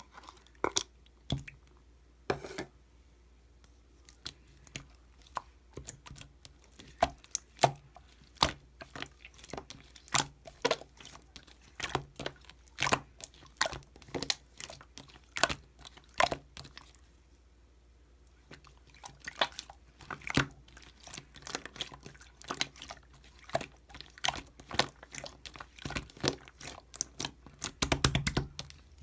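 Slime being squeezed and pressed by hand, making a quick run of sharp wet clicks and pops, with a lull of about two seconds just past the middle.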